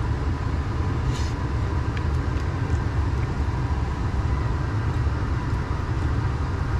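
Idling semi-truck engine heard inside the cab: a steady low rumble with a faint steady hum above it and a few small clicks.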